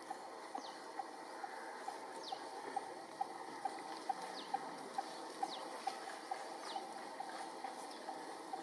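Birds calling: one repeats a short low note about twice a second, while another gives thin, high, falling whistles every second or two.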